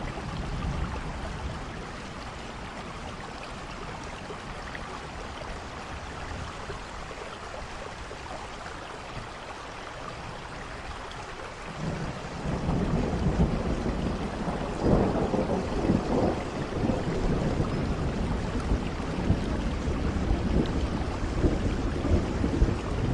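Steady rain falling, with a low rumble of thunder rising about halfway through, swelling a few seconds later and rolling on to the end.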